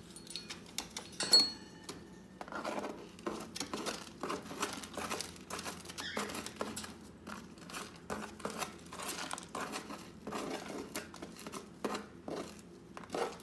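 Sun conure parrot shredding material in its box with its beak: irregular crinkling and tearing. A sharp clink about a second in.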